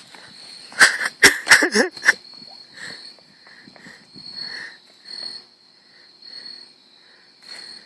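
Steady high-pitched insect trill, like crickets, with a cluster of sharp knocks and rustles about one to two seconds in.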